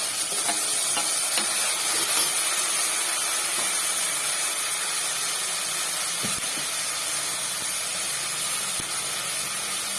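Tomatoes sizzling in hot oil in a kadai: a steady hiss that eases a little, with a few faint taps.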